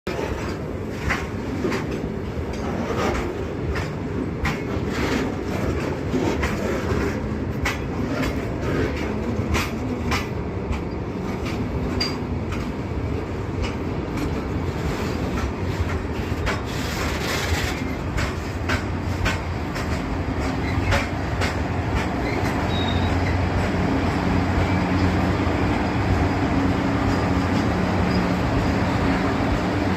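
Train hauled by an Indian Railways WAG-5 electric locomotive running past, its wheels clicking over the rail joints. A steady low hum with several pitches grows louder about two-thirds of the way through.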